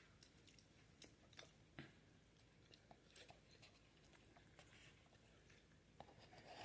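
Faint chewing of ramen noodles: soft, irregular mouth clicks and smacks over a quiet room.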